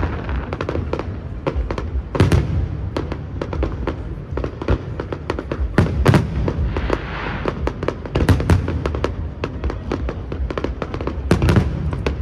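Fireworks display: rapid crackling and popping throughout, with a handful of heavy booms from shells bursting, the loudest about two, six, eight and eleven seconds in.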